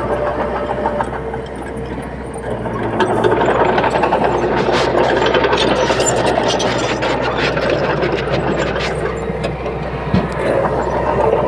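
Komatsu D31P bulldozer's diesel engine running steadily under load. It grows louder from about three seconds in, with a run of metallic clanks and clicks through the middle.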